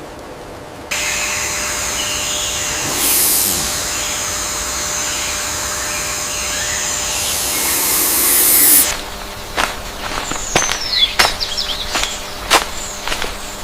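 Rainforest ambience: a dense, steady hiss with high held tones that cuts off abruptly about nine seconds in. It gives way to a string of sharp clicks and a short falling bird call.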